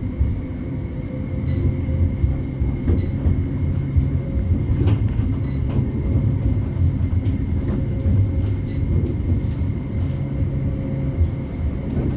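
Onboard running noise of a West Midlands Metro CAF Urbos 3 tram in motion: a steady low rumble from the wheels and running gear, with a thin steady whine and light clicks scattered throughout.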